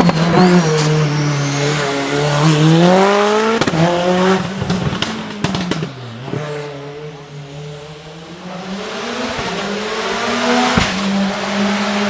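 Lancia Delta HF Integrale E1 hillclimb car's turbocharged engine accelerating hard, its pitch rising in repeated pulls through the gears, with sharp cracks between them. It quiets in the middle, then builds again, with a loud crack near the end.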